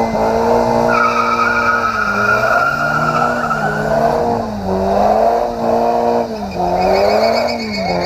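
Car engine and exhaust revved and held at high rpm, with the pitch dipping briefly and coming back up several times.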